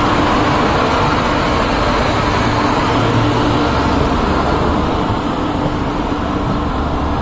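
A train moving past close by: a loud, steady rolling rumble, with a low hum that comes and goes.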